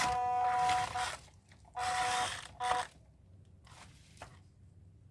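Electric motor and gearbox of a WPL C24 RC truck whining in short bursts: one that cuts off about a second in, and a second burst of about a second shortly after, then a few faint clicks.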